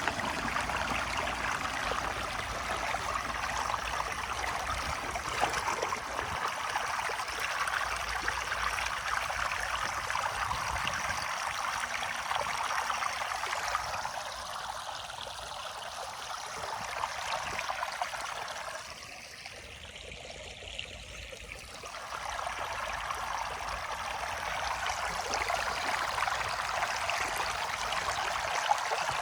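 Floodwater rushing steadily down a drain, an even splashing flow that eases off for a few seconds about two-thirds of the way through, then picks up again.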